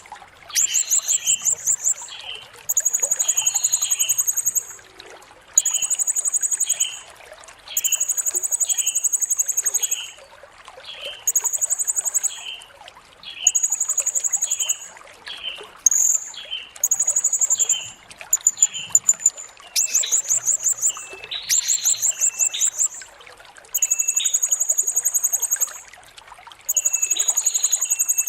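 Blue-crowned hanging parrot (serindit) singing: a very high, rapid, buzzy trill about a second or two long, repeated every two seconds or so, with short chirps between the trills.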